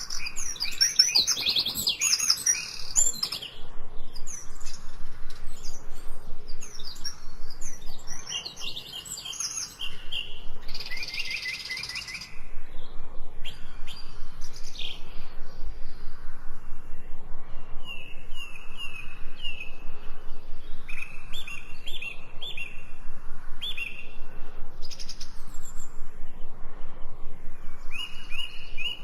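Several birds chirping and singing, a varied mix of calls at first, then from about twelve seconds in, fast runs of repeated high chirps.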